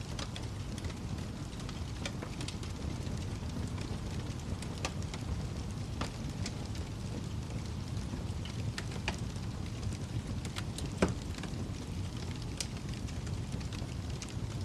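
Wood fire crackling in a fireplace: a steady low rumble of burning with scattered sharp pops and snaps, the loudest pop about eleven seconds in.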